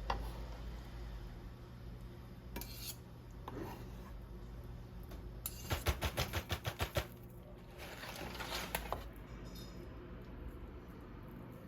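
Kitchen utensil and dish sounds: a few scattered clinks, then about halfway through a quick even run of about ten strokes against a bowl, followed by a softer scraping.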